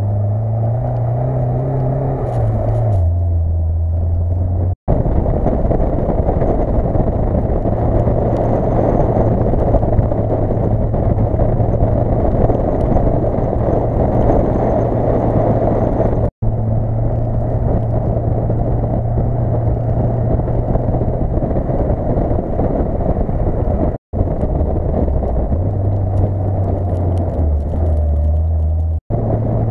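Lada Niva's four-cylinder engine pulling steadily as the car drives through snow, with a rush of tyre and snow noise; the engine pitch rises and falls in the first few seconds and shifts again near the end. The sound breaks off for an instant four times.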